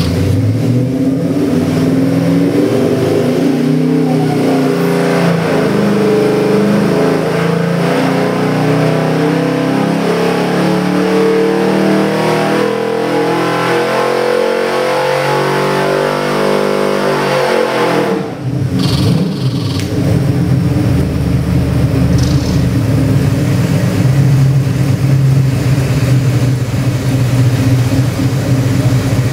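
Ford 427 Windsor stroker small-block V8 crate engine running and revved, its pitch climbing and held up high, then dropping back sharply about eighteen seconds in and running steadily after that.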